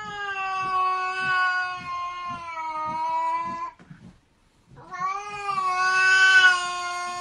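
Domestic cat yowling: two long, drawn-out caterwauls of about four seconds each with a short gap between, the pitch holding fairly steady and sagging slightly.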